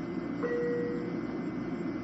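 Interior running noise of an LIRR M7 electric railcar under way: a steady low rumble, with a brief steady tone starting about half a second in.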